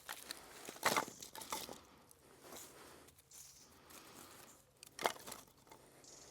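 Dry sticks and forest-floor litter being handled: irregular crunching and rustling, with a sharp crack about a second in and another about five seconds in.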